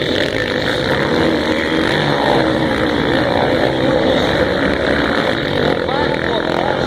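Many motocross motorcycle engines running hard together as the pack races away from the start, blending into one loud, steady drone with wavering engine pitches.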